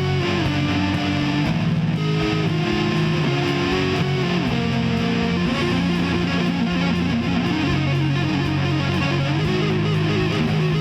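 Instrumental passage of a home-recorded nu-metal song: distorted electric guitars playing, with no vocals.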